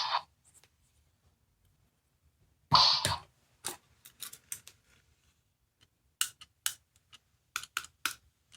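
Small sound-making capsule toy being played with: two short noisy bursts, one at the start and one about three seconds in, then a run of sharp clicks.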